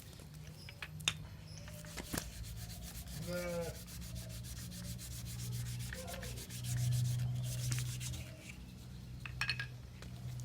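Rapid, rhythmic rubbing strokes from hand-sanding or scrubbing a motorcycle engine part.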